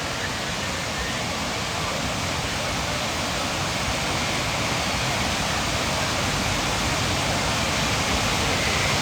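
Steady rush of Dadar Waterfall's falling water, an even roar of noise with no change in level.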